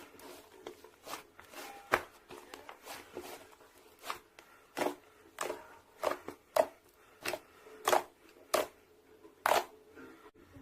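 Clay-mixed slime being squeezed and pressed by hand, making sharp wet clicks and pops. They are small and irregular at first, then from about four seconds in come louder and fairly evenly, roughly one every two-thirds of a second.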